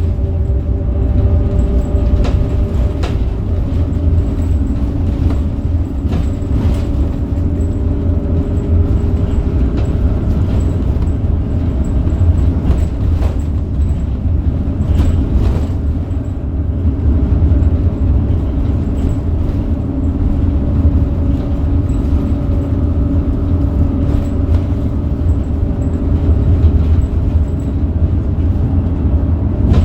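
Scania DC9 five-cylinder diesel engine and ZF Ecomat automatic gearbox of a Scania K270UB bus running as the bus drives: a steady low rumble with a whining tone that shifts in pitch about three seconds in, and scattered clicks and rattles.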